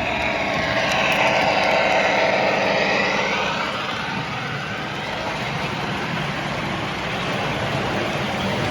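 Lionel model train running on the layout track: a steady motor whine and wheel rumble, the whine falling in pitch and rising again in the first few seconds.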